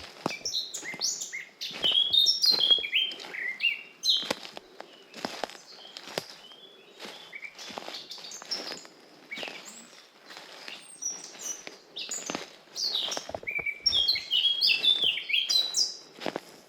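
Songbirds singing in a forest, with bursts of quick, chirping song in the first few seconds and again near the end. Under them run regular footsteps on a forest path, about one or two a second.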